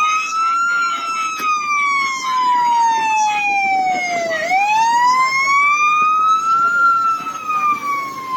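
Police car siren wailing, its pitch sliding slowly down, then sweeping back up about four and a half seconds in and peaking before it starts falling again.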